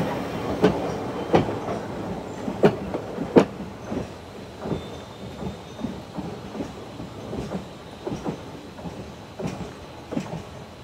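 Freight train wheels clacking over rail joints in quick pairs over a rolling rumble, fading as the train moves away.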